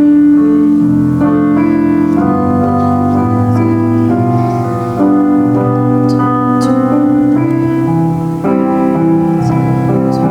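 Solo piano playing a slow hymn: sustained full chords changing every second or two, with a steady bass line.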